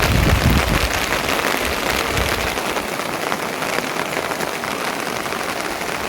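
Steady rain falling, a dense even patter of drops, with a low rumble in the first second.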